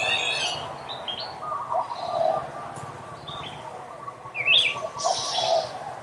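Several birds chirping and calling. There is a burst of chirps at the start, short whistled notes and a run of lower repeated notes in the middle, the loudest call rising sharply about four and a half seconds in, and hissy chatter near the end.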